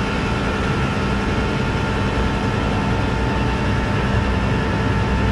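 Rollback tow truck's engine running steadily with a constant whine from its hydraulics while the car is lowered off the bed.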